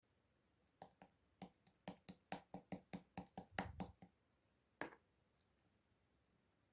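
Clear slime being pressed and squished by hand, giving a quick run of about fifteen crisp clicks and pops over three seconds, then one more after a short pause.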